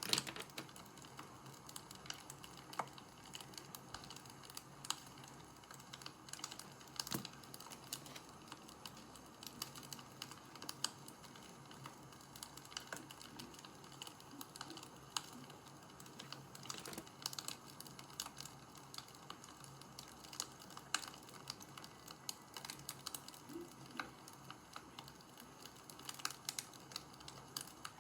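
Wood fire crackling: sharp, irregular pops and snaps over a soft steady hiss.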